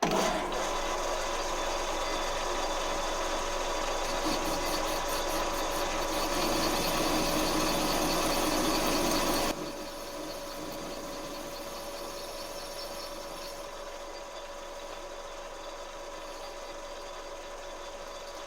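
Metal lathe running while a 2 mm parting tool cuts a groove into a metal adapter pin, a harsh cutting noise over the machine's steady whine. The cutting noise stops about nine and a half seconds in, leaving the lathe running on its own.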